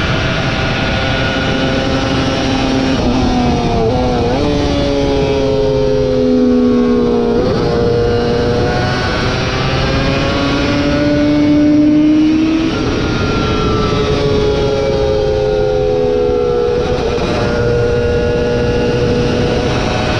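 Superbike racing motorcycle engine at high revs, its pitch repeatedly climbing and falling as it is ridden hard around a track, with sudden jumps in pitch a few times.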